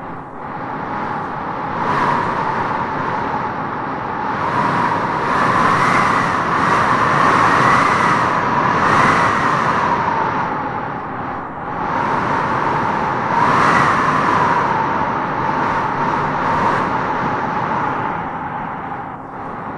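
Strong wind blowing in gusts, with a hollow whistle that rises and falls in pitch as each gust swells and eases.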